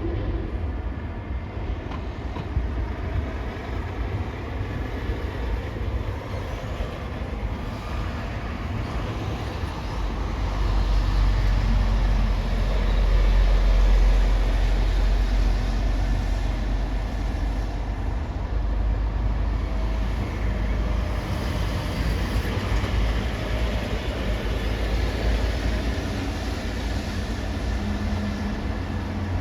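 Low, steady rumble of heavy engines, swelling louder for several seconds in the middle before easing back.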